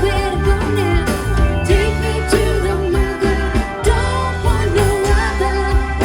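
Rock band playing live: a bass line moving in steady blocks under drums and a wavering lead melody.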